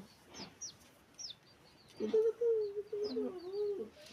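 Small birds chirping in short falling chirps, with a longer, wavering call from about halfway through to near the end.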